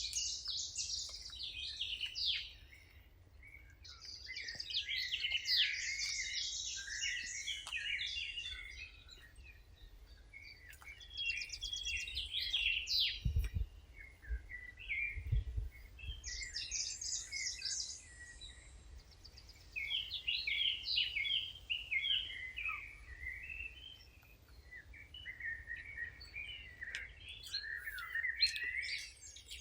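Songbirds singing in bouts of quick, high twittering phrases a few seconds long, with short pauses between them. Two brief low thumps come about halfway through.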